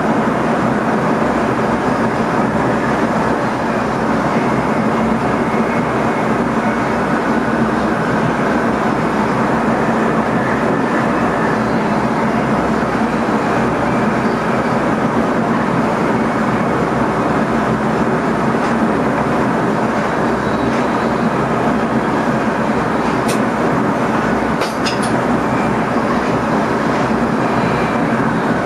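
Steady running noise of an NS ICM electric multiple unit, heard from inside the driver's cab as it travels along the line, with a low steady hum underneath. A few sharp clicks come in close together a few seconds before the end.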